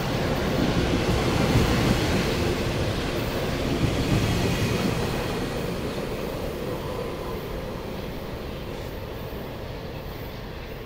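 Sounder commuter train's double-deck coaches rolling past on the rails, with a steady rumble of wheels on track. The rumble fades away through the second half as the rear cab car passes and the train moves off.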